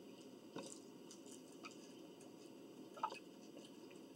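Faint mouth sounds of eating: soft chewing with a few small wet clicks, the sharpest about three seconds in.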